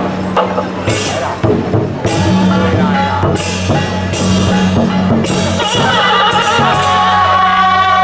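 Temple procession percussion: repeated cymbal-like crashes over drumming. About six seconds in, a held, pitched melody line enters, wavering at first and then steady.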